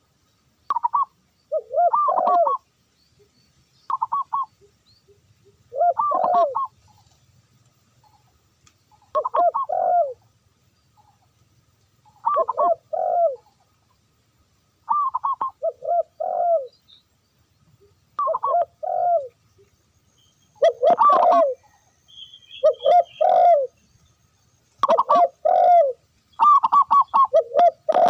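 Dove cooing: a short rhythmic coo phrase repeated about every two to three seconds, about a dozen times, with faint higher chirps from another bird in the later part.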